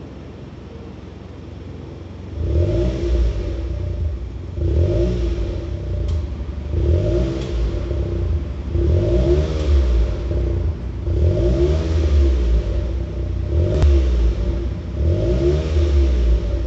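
Honda N-BOX Custom's three-cylinder kei-car engine breathing through a Rosso Modello aftermarket muffler, idling low, then revved and let fall back about every two seconds, seven times.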